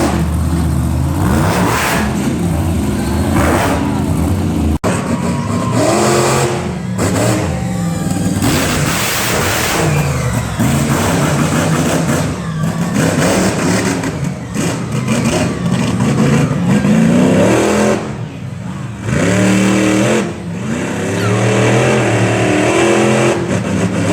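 A monster truck engine revving, its pitch rising and falling again and again. The sound drops out for an instant about five seconds in.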